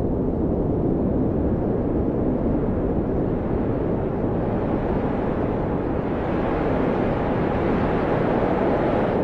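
Blizzard wind blowing steadily as a dense, low rush, with a faint whistling howl coming in during the latter half.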